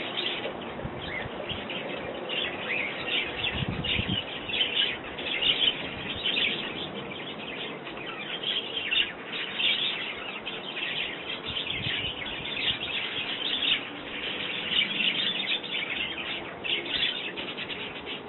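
Small garden birds chirping continuously, with many short high chirps overlapping.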